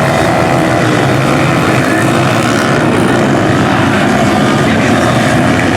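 A pack of small four-stroke pit bike engines running hard together, a dense, continuous, wavering racket of several engines at once.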